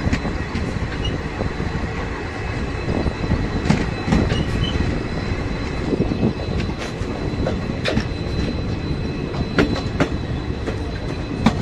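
Passenger train coaches rolling along the rails, their wheels clacking irregularly over rail joints, with a faint, thin, steady high wheel squeal.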